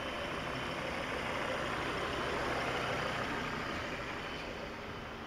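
2006 Volvo V50's five-cylinder engine idling steadily, its cracked crankcase breather hose just replaced.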